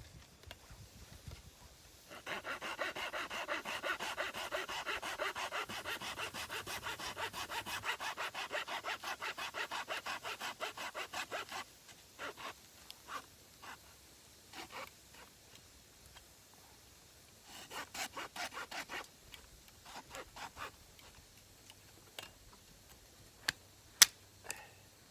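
Hand saw cutting through firewood in rapid, even back-and-forth strokes for about ten seconds, then a few shorter bursts of sawing. Two sharp clicks come near the end.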